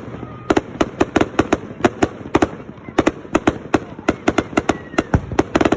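Fireworks going off: an irregular string of sharp bangs and pops, several a second, with a quick flurry near the end.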